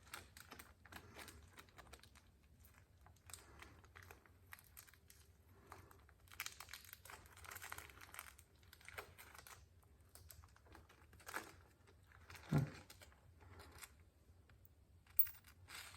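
Faint crinkling and rustling from hands working on the oil change, with a few light knocks in the second half.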